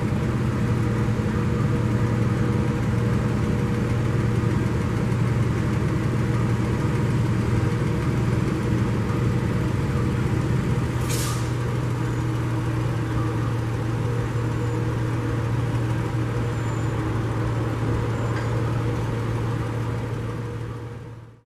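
An engine running steadily with a low drone, with a brief hiss about eleven seconds in.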